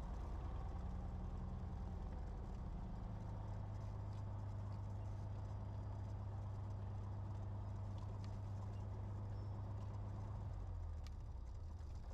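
Cessna 182RG's six-cylinder Lycoming engine idling steadily as the plane taxis after landing. The low hum fades about eleven seconds in.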